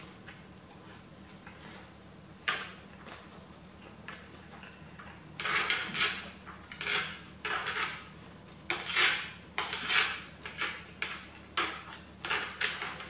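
Close-miked eating of noodles: a single click about two and a half seconds in, then from about halfway a run of short, quick eating sounds, about two a second.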